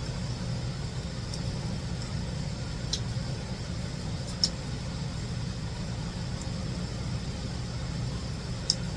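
A steady low hum, with a few short, sharp clicks about three, four and a half and nearly nine seconds in.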